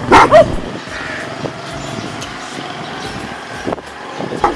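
Steady street background with a low traffic hum, after a short loud pitched cry right at the start.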